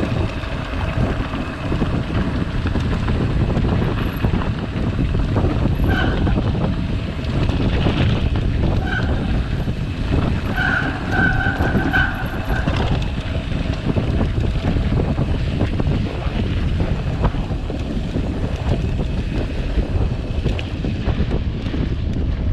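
Wind buffeting the camera microphone and tyres rumbling over gravel as a mountain bike descends a dirt road at speed. A few short high-pitched tones come in near the middle.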